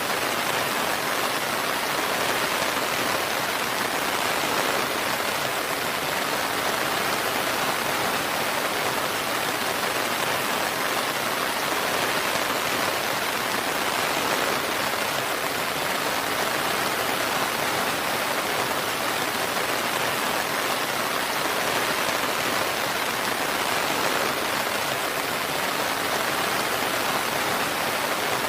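Steady, heavy rain falling, an even dense hiss of drops with no distinct individual drips.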